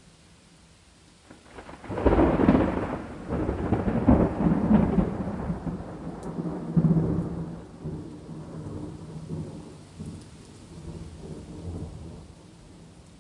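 Thunder over steady rain: a loud clap about two seconds in, rolling on in several swells of rumble and dying away over about ten seconds.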